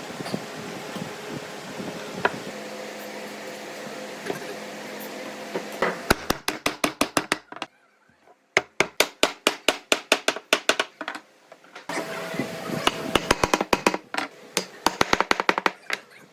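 Steady workshop background, then three runs of quick, even hammer blows on wood, about six strikes a second, starting about six seconds in with short pauses between the runs.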